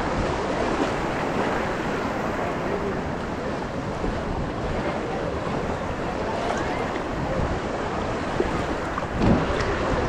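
Shallow sea surf washing around the legs, with wind buffeting the microphone as a steady rushing noise. A brief louder splash about nine seconds in.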